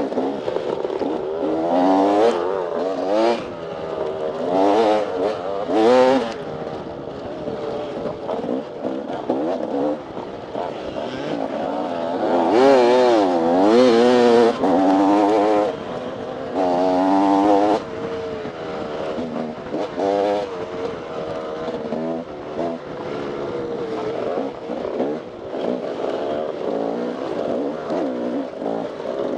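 Dirt bike engine revving up and down over and over as it is ridden hard on an off-road trail, the pitch climbing and dropping through throttle changes and gear shifts. It peaks loudest in several hard pulls, with a rush of hiss at the top.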